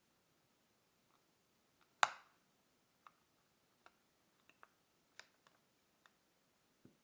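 Small hand tools and phone parts clicking and tapping on a desk during a smartphone teardown: one sharper click about two seconds in, then a scattering of faint ticks.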